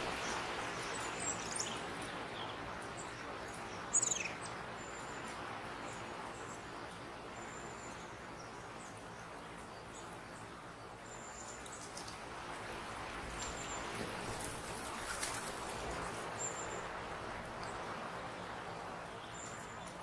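Woodland birds calling: short, thin, very high notes every second or two, and one louder chirp about four seconds in that drops steeply in pitch. Underneath is a steady rushing noise that swells and fades.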